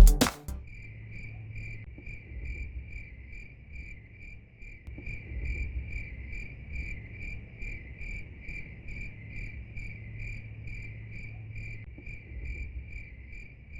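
Cricket chirping steadily, an even, high-pitched pulse of about two or three chirps a second, over a faint low hum.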